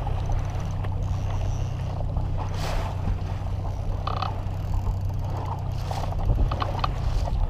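Boat motor running steadily with a low drone, under a rush of water and wind as the boat moves through choppy water, with an occasional louder splash.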